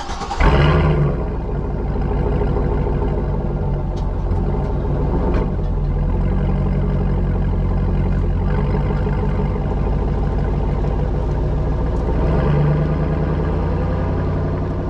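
2003 Chevy SSR's 5.3-litre V8 running through a Corsa exhaust, with a loud burst right at the start and then a steady idle that gets louder for a moment near the end.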